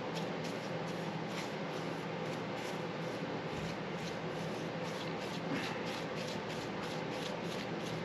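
Paintbrush stroking paint onto an engine: a soft, repeated brushing and scraping, over a steady low background hum.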